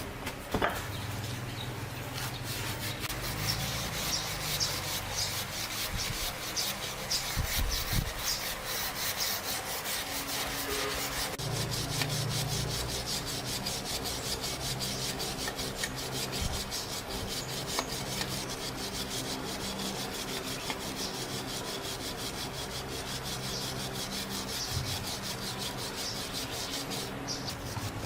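Continuous abrasive rubbing against a surface, a steady scratchy scraping that keeps going without a break.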